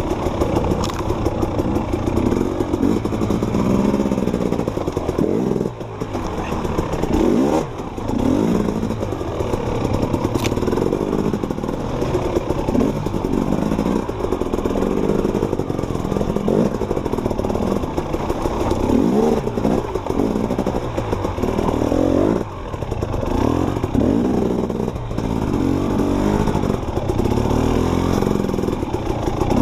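Enduro dirt bike engine running continuously, its revs repeatedly rising and falling, with a few brief drops in throttle.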